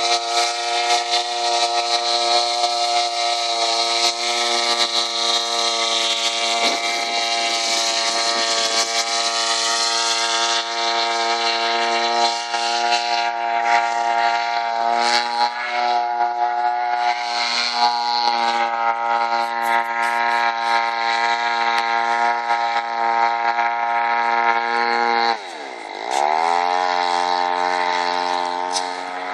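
62cc two-stroke chainsaw engine driving an 18x12 propeller on an RC airboat, running steadily at high speed. About 25 seconds in the throttle is cut: the pitch falls quickly and settles into a lower, steady running speed.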